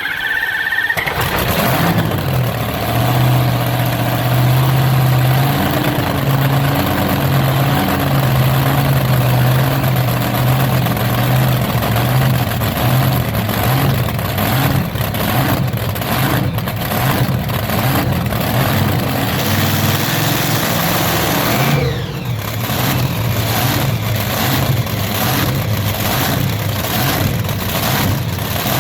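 A pulling tractor's engine starts and runs loudly, holding a steady low note with small rises and dips in revs. The sound changes abruptly about 22 seconds in.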